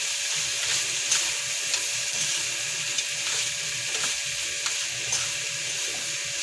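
Shrimp sizzling in butter in a frying pan as they are stirred, with a steady hiss and a few sharp clicks of the spatula against the pan.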